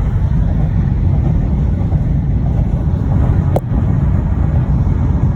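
Steady low rumble of a car driving, road and engine noise heard from inside the cabin, with a single brief click about three and a half seconds in.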